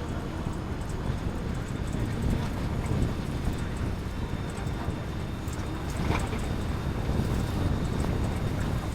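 Bus driving along the road: steady low rumble from engine and road, with wind buffeting the microphone and a few brief knocks or rattles.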